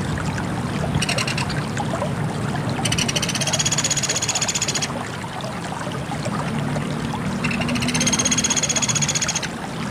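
Pelatuk beras, a small woodpecker, calling in fast, high trills: a short trill about a second in, then two longer trills of about two seconds each, one about three seconds in and one near the end, over a steady background noise.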